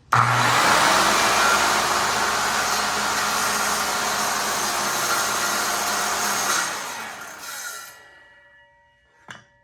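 RIDGID circular saw starting up abruptly and running at full speed for about six and a half seconds, then winding down. A short click comes near the end.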